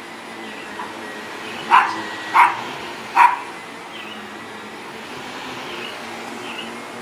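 A dog barks three times in quick succession, short sharp barks, over the steady hum of a running Shark Navigator NV360 upright vacuum cleaner; the dog is reacting to the vacuum.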